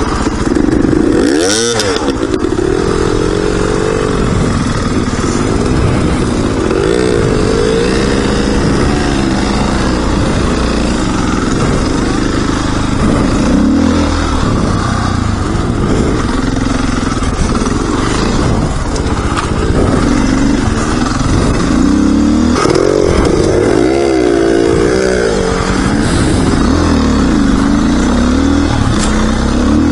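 Dirt bike engine being ridden, its pitch rising and falling repeatedly with the throttle, over the steady rush of riding.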